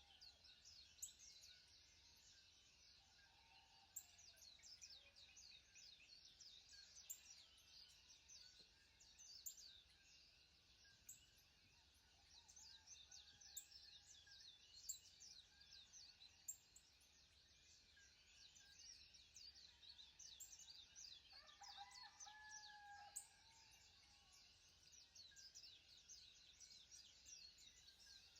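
Faint birdsong: many quick, high chirps overlapping throughout, with one lower, longer bird call a little past the middle.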